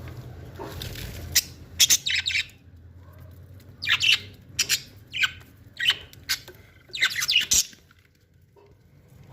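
Pet bird giving a run of short, sharp chirps and squawks, about a dozen in quick clusters, stopping shortly before the end.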